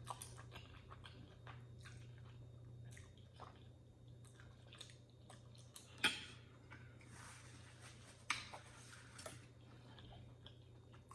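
A person chewing noodles close to the microphone: soft wet mouth clicks and smacks throughout, with a few louder wet sounds about six and eight seconds in. A steady low hum runs underneath.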